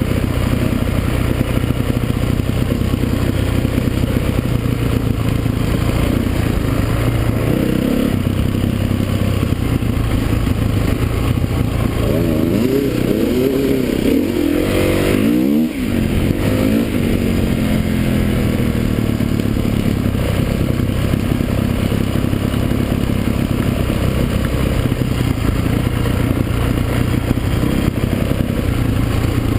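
Motocross motorcycles racing, engines running and revving continuously. One bike passes close about halfway through, its engine pitch dropping sharply as it goes by.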